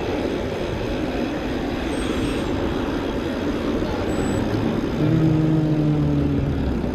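Road traffic heard from a moving bicycle: a steady rushing noise with low rumble. About five seconds in, a nearby motor vehicle's engine hum comes in at a steady pitch that dips slightly near the end.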